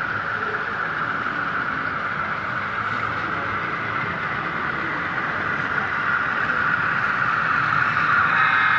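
Model iron ore train running on the layout, a steady rolling rush of metal wheels on rails with a motor hum, growing louder near the end.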